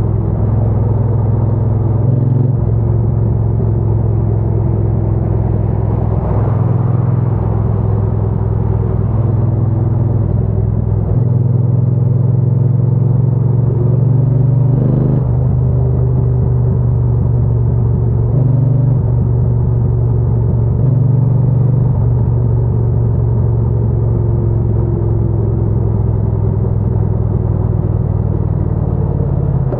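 Triumph Bonneville T120's 1200 cc parallel-twin engine and exhaust running steadily under way. The low engine note steps up and down several times as throttle and gears change.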